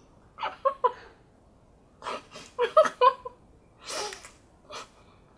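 Several short bursts of muffled laughter and heavy breathing from someone with a mouthful of marshmallows.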